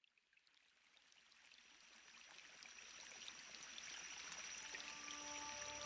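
Running water trickling with small drips, fading in from silence and growing steadily louder. A thin, high steady tone joins after about a second and a half, and soft sustained music notes come in near the end.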